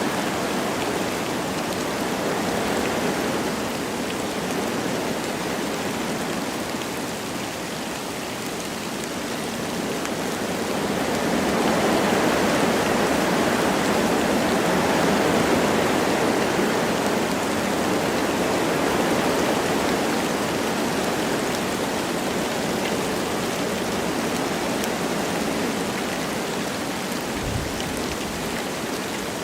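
Wind blowing through forest trees with light rain falling, a steady rushing that swells and eases slowly in gusts.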